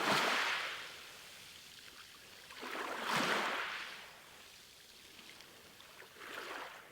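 Sea waves washing in, three surges of rushing noise about three seconds apart, the last one weaker.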